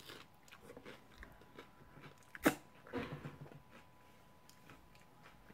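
Crisp fried tostada shell being bitten and chewed close to the mic: a run of small crunches and mouth clicks, with one loud sharp crack about two and a half seconds in.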